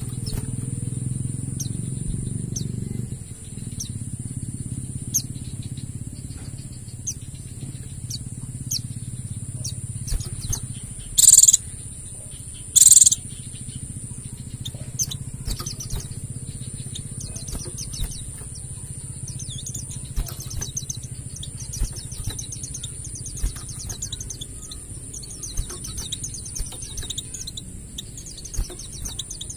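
White-eyes (pleci) chirping and twittering in short, high notes, becoming a fast continuous chatter in the second half. Two loud, sharp bursts come at about 11 and 13 seconds in.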